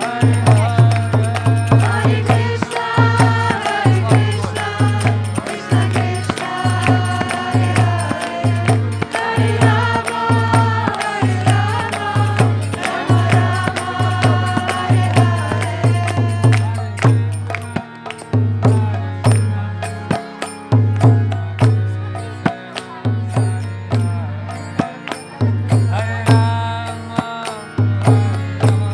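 Kirtan: voices chanting a devotional mantra over a steady hand-drum beat and hand cymbals. The singing drops out for about ten seconds past the middle and returns near the end.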